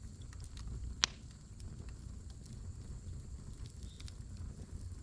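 Firewood burning in a campfire, crackling with scattered small pops and one sharp, loud pop about a second in, over a low steady rumble.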